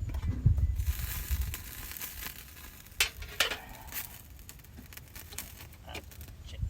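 Food sizzling in a hot pan for about two seconds, then a few sharp clicks and taps.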